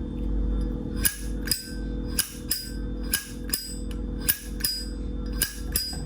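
Vintage chrome Zippo lighter's hinged lid flicked open and snapped shut again and again: sharp metallic clacks with a short ringing tone, about two a second.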